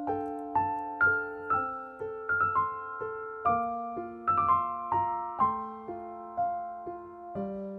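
Background music: a gentle piano melody with single notes struck about twice a second, each ringing on and fading.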